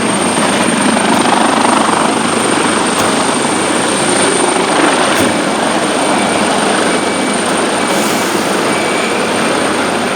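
Helicopter running close by: a loud, steady rotor and engine noise with a thin, high, steady whine over it.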